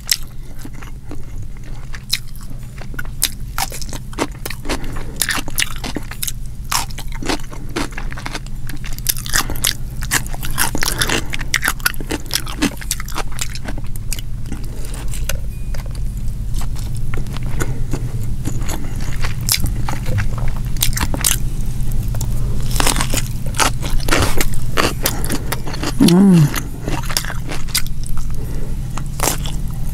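Close-miked chewing and biting of fried fish, white rice and cucumber, eaten with the fingers: a dense run of irregular crisp clicks and crunches, with a crunchy cucumber bite near the end. A low steady hum runs underneath, and a brief rising-and-falling tone comes in near the end.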